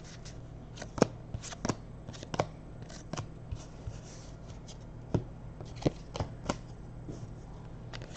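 Basketball trading cards being flipped through one at a time in the hands, their edges giving irregular sharp snaps, the loudest about a second in and again between about five and six and a half seconds in. A low steady hum runs underneath.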